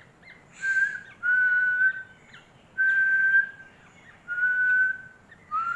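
A person whistling five long, level notes, each just under a second, with short gaps between them; the last note rises and then falls in pitch.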